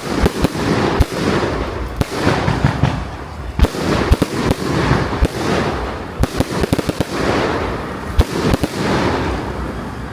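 Fireworks display: a dense run of bangs from bursting aerial shells, several a second, over continuous crackling.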